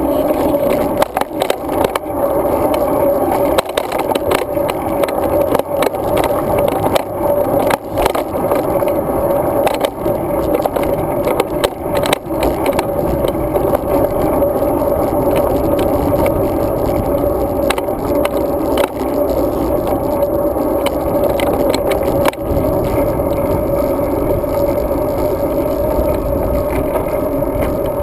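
Road bike in motion: a steady rumble of tyres and rushing air, broken by frequent short clicks and rattles as the bike goes over bumps.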